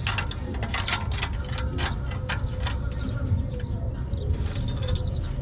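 Irregular metallic clicks and clinks as muffler clamp hardware and tools are handled, over a steady low rumble.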